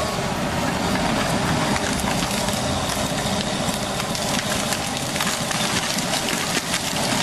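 Heavy land-clearing machinery running steadily under load, with frequent sharp cracks and snaps over the engine noise.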